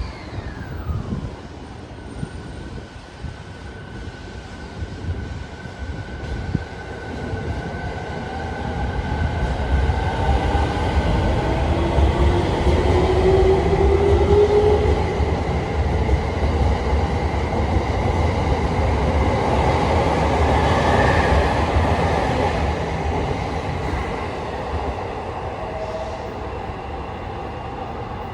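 JR 209 series electric train departing: its electric traction motors whine and rise in pitch as it accelerates, over the low rumble of the wheels on the rails. The noise grows louder, holds for several seconds, then fades as the train draws away.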